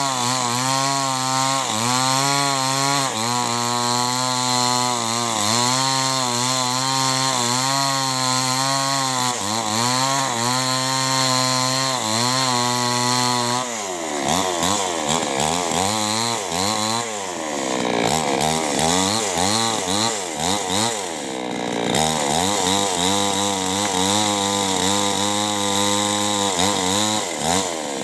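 Two-stroke petrol chainsaw running at high revs while cutting lengthwise through a log, its note sagging slightly and recovering about once a second under load. About halfway through, the engine speed falls and then rises and falls repeatedly as the throttle is worked.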